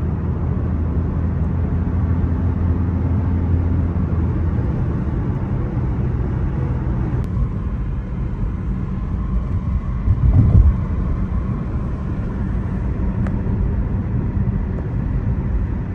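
Car driving, heard from inside the cabin: a steady low rumble of road and engine noise, with a brief louder bump about ten seconds in.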